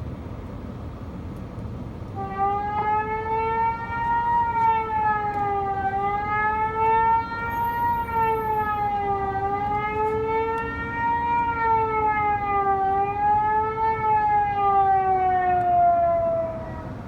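Tornado warning siren wailing, its pitch slowly rising and falling about every three seconds. It starts about two seconds in and dies away near the end, over a low steady background rumble.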